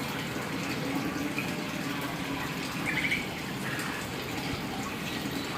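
A steady rushing noise like running water, with one short, faint call from the hill myna about three seconds in.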